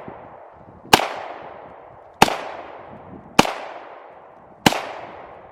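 Four shots from a 9mm pistol, fired at a steady pace about a second and a quarter apart, each sharp crack followed by a fading echo.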